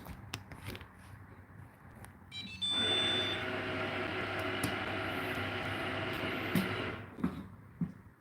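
Whirlpool dishwasher: a few short electronic beeps about two and a half seconds in, then a steady motor hum for about four seconds that cuts off suddenly.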